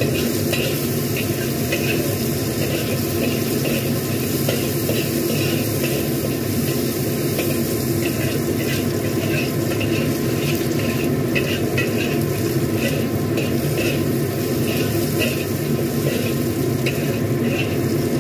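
Sliced shallots and garlic sizzling in hot oil in a black wok, being sautéed until fragrant and cooked. A metal spatula scrapes and clinks against the pan in frequent short strokes as they are stirred over a steady sizzle.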